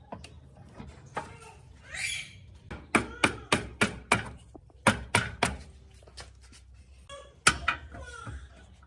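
An irregular series of sharp knocks and clicks from hard objects being handled or tapped, several in quick succession between about three and five and a half seconds in, and two more near the end.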